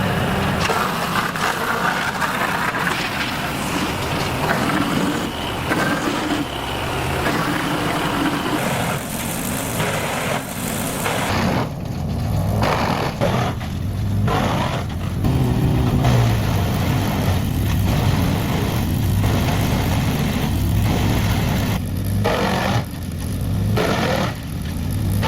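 Engine-driven wood chipper running under load while it shreds wood, a dense grinding noise over the engine. About eleven seconds in, the engine hum comes forward, broken by repeated short bursts as more wood is fed and chipped.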